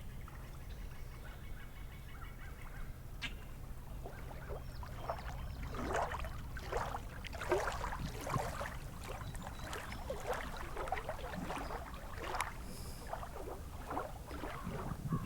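Waterbirds calling, many short calls overlapping and growing busier from about five seconds in, over a steady low rumble.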